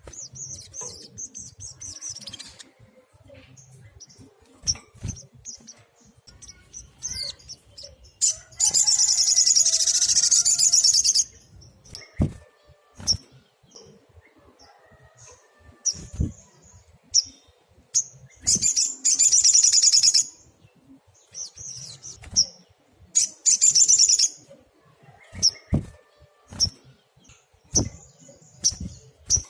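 Olive-backed sunbird singing: short high chirps broken by several fast, buzzy trills of one to three seconds each, with a few sharp clicks in between.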